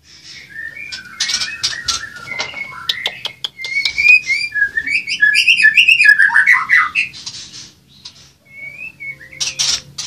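White-rumped shamas calling: a rapid run of short, whistled, sliding notes that grows louder in the middle and ends in a falling series of notes. A few sharp rustles and clicks come about three seconds in, from dry nesting material being handled.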